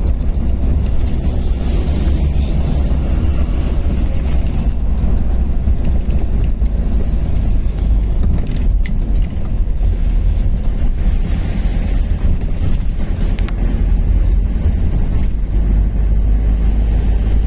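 Mitsubishi Fuso truck driving on the road: a loud, steady low rumble of engine and road noise, with a few brief knocks or rattles.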